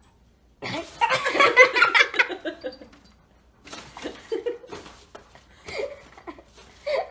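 Hearty human laughter breaks out loudly under a second in, then trails off into quieter bursts of chuckling.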